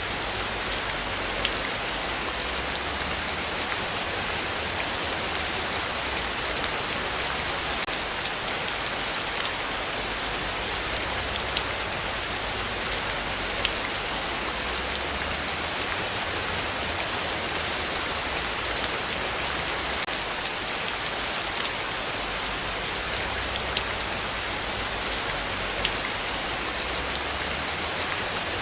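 Heavy rain falling steadily: a dense, even hiss studded with many fine raindrop ticks.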